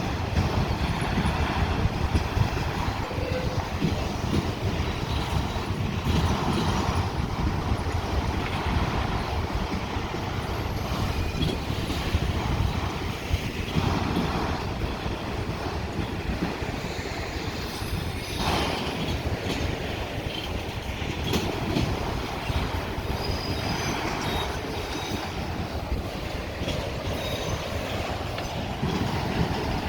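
Freight train cars rolling slowly through a curve and over a crossing diamond: a steady rumble and clatter of wheels, with scattered clicks and some faint wheel squeal on the curve.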